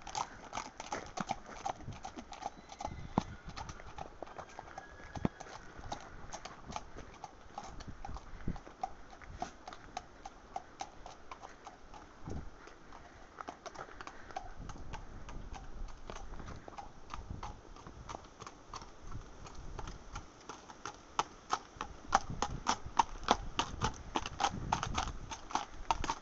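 A horse's hooves clip-clopping in a steady rhythm, fainter through the middle and louder again near the end, with wind buffeting the microphone.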